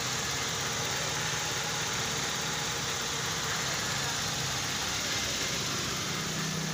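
Toyota Corolla engine idling steadily, an even running sound with a low hum.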